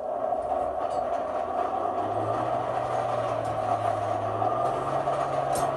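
Blacksmith's forge running with a steady roar. It starts suddenly and holds even, with a low hum underneath that steps up in pitch partway through.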